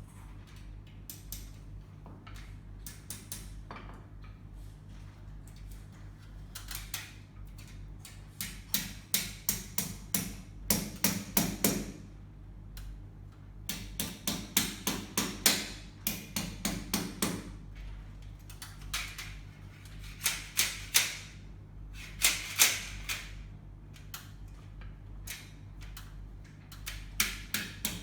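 Bursts of rapid sharp knocks, about three or four a second, that stop and start several times over a steady low hum.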